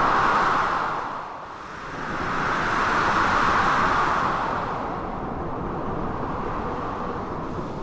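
Storm ambience of blizzard wind and sea surf: a loud, even rush that swells twice, about three seconds apart, and eases between the surges.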